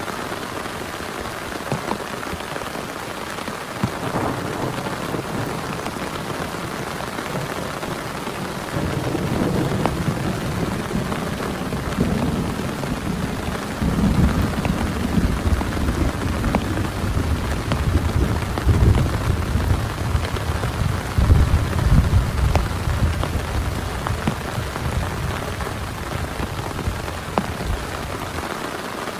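Steady heavy rain, with a long roll of thunder that builds about a third of the way in, is loudest through the middle and dies away near the end.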